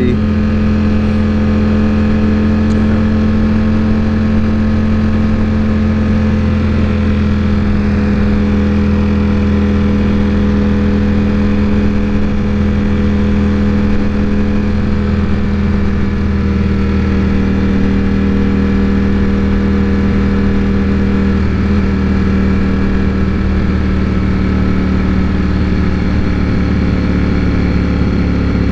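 Ducati Panigale V4 S engine running at a steady cruise while riding, its note holding nearly constant with a couple of slight shifts in pitch.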